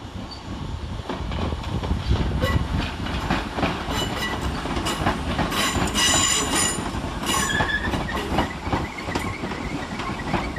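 Merseyrail Class 508 electric multiple unit running into the platform, its wheels clicking and clattering over the track with ringing wheel squeal. The sound swells to its loudest around the middle, then eases.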